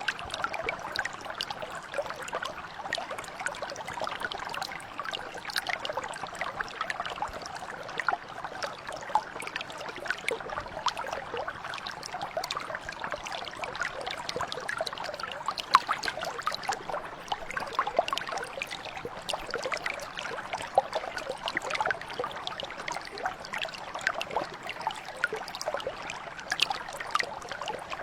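Stream water flowing and trickling over stones, a steady babble full of small splashes and drips.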